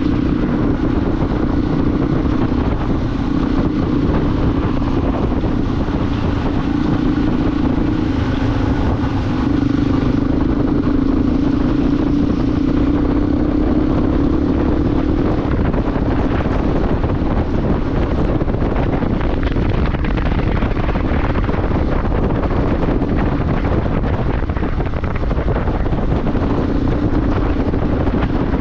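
Motorcycle under way at a steady speed: the engine drones at an even pitch under heavy wind noise on the microphone. The engine tone drops back about halfway through and returns near the end.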